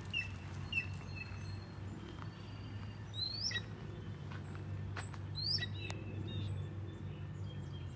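Wild birds calling outdoors: a few short whistled notes near the start, then quick rising calls about three seconds in and again around five seconds in, over a steady low hum.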